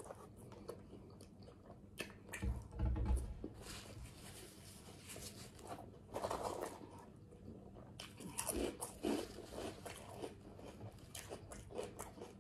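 Close-miked chewing and crunching of potato chips: a run of crisp crackles and clicks as the chips are bitten and chewed. There is a dull low thump about two and a half seconds in.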